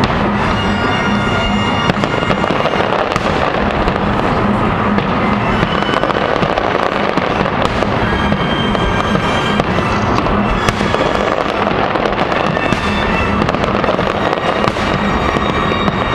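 Large fireworks display going off without pause: a dense, unbroken run of bangs and crackling from many shells at once, with music playing alongside.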